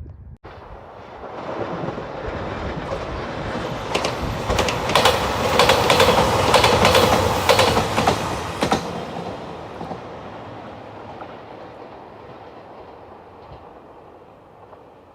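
A JR Shikoku 2700-series diesel express train passing. It builds from about a second in and is loudest between about four and nine seconds in, with a quick run of wheel clicks over the rail joints, then fades away.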